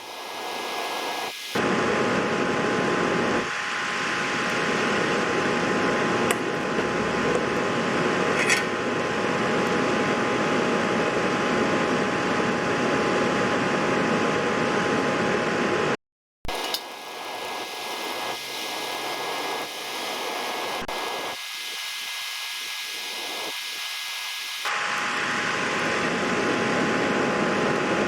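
Steady whirring hiss with a few faint constant hum tones, like a small fan running, broken by sudden cuts about a second and a half in and near the middle, and a step in level near the end.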